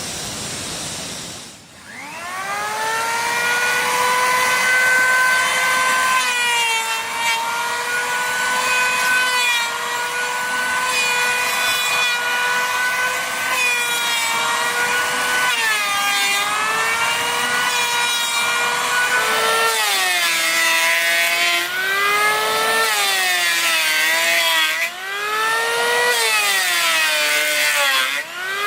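Electric power tool cutting wood: its motor spins up to a steady high whine about two seconds in, and from about two-thirds of the way through the pitch sags and recovers again and again as the blade bites into the wood.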